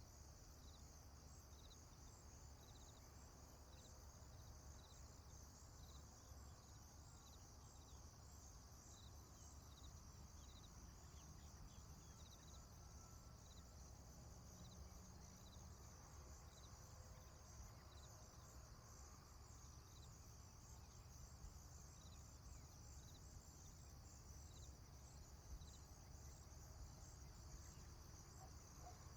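Faint crickets chirping steadily: a regular chirp about once a second over a continuous high trill, with a low rumble of background noise underneath.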